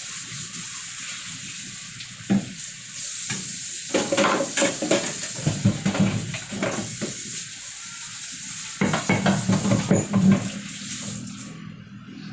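Stovetop cooking sounds: a steady sizzling hiss from the cookware, with bursts of clinks and knocks of utensils against pots and pans about two seconds in, in the middle, and again near the end. The hiss cuts off suddenly shortly before the end.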